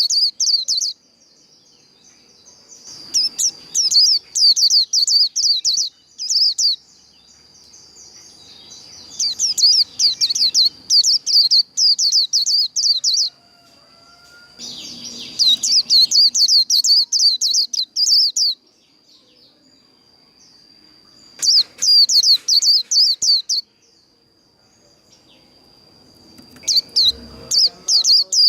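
White-eye (vành khuyên) singing its rapid, high-pitched chattering 'líu' song in repeated bursts of one to four seconds, about six times, with short pauses between. A faint steady high whistle-like tone runs beneath.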